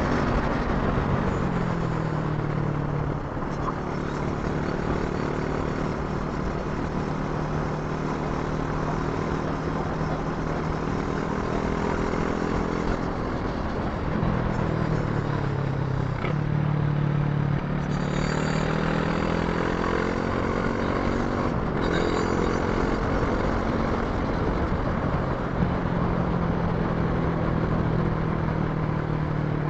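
Brixton Crossfire 500's parallel-twin engine under way on the road, with rushing wind and road noise. The revs fall a couple of seconds in and then hold steady. Near the middle they dip, climb for a few seconds and drop sharply at a gear change, then settle into a steady cruise.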